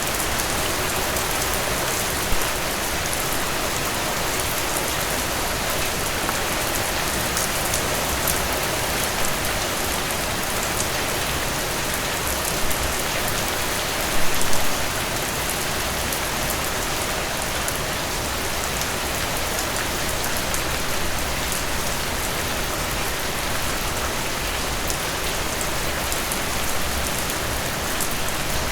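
Heavy rain falling steadily, with a few brief louder spatters, the biggest about fourteen seconds in.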